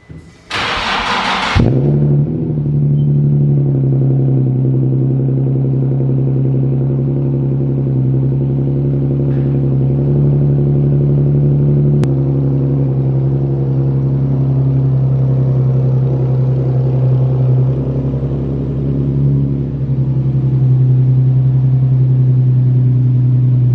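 Nissan 370Z Nismo's 3.7-litre V6 started from cold: a brief burst of cranking for about a second, then it catches and idles steadily through a muffler-delete exhaust with the muffler cut off, a loud deep drone.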